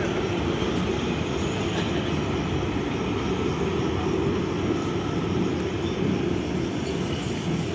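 A train passing close by, a steady noise of wheels and cars on the rails that eases slightly near the end.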